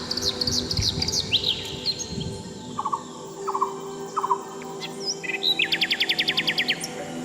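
Several birds singing: quick high chirps at first, a few short lower chirps in the middle, then a fast, even trill lasting just over a second near the end, over faint music.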